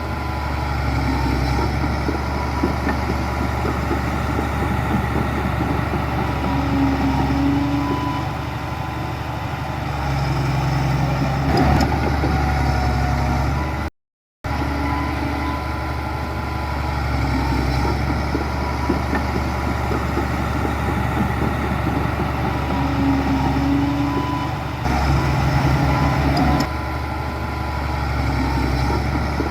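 Heavy diesel engine of earthmoving machinery running steadily, with small rises and falls in load. The sound cuts out to silence for about half a second midway.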